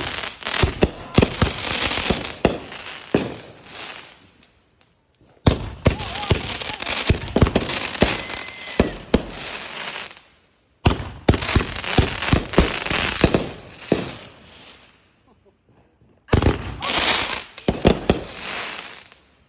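Consumer firework going off in four bursts about five seconds apart. Each burst starts suddenly with a dense run of crackling pops over a hiss, then fades out over a few seconds.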